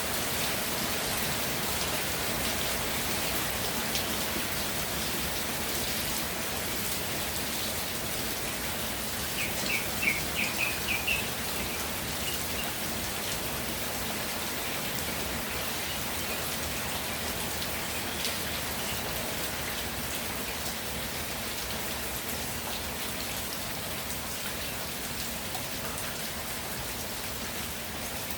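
Steady, even rainfall. About a third of the way in, a quick run of about six short high chirps sounds over the rain.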